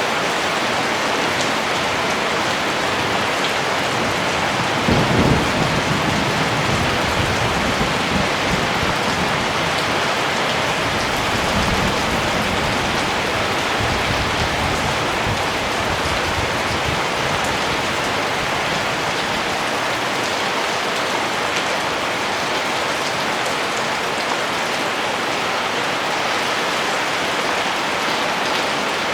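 Steady rain falling, with a low rumble of thunder that rises about five seconds in and fades away over several seconds.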